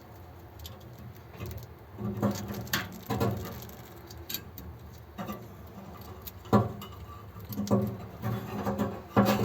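Irregular light clicks, taps and rustles of small parts being handled: a fuel tank sender unit, its gasket and fixing screws being positioned by hand.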